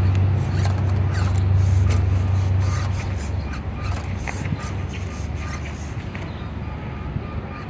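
A 1/24-scale Axial SCX24 RC crawler working over the course, its tyres and chassis scraping and clicking on the obstacles. A low hum fades out about three seconds in.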